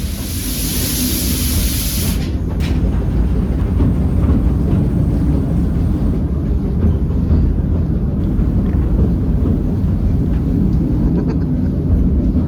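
Narrow-gauge steam train running along, heard from the open coach right behind the locomotive: a steady low rumble of the loco and coaches on the rails. A loud hiss in the first two seconds stops suddenly.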